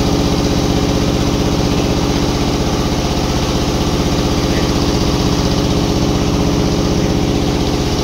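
An engine running steadily at idle with a fast, even pulse and no change in speed, typical of the engine driving a sawmill with no log being cut.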